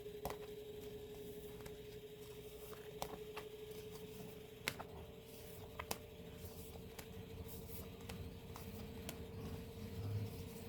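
Light handling of album packaging and paper inserts: scattered small clicks and taps over a steady low hum.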